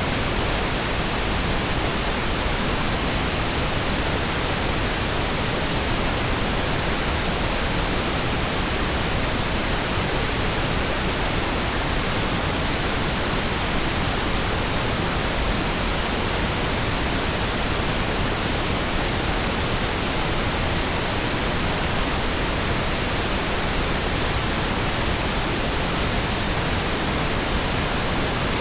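Synthetic pink noise: a steady, even hiss across all pitches, smooth and unchanging.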